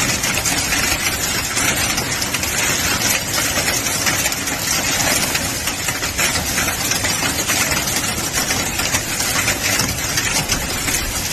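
Heavy storm downpour: loud, steady rushing noise of precipitation falling without a break.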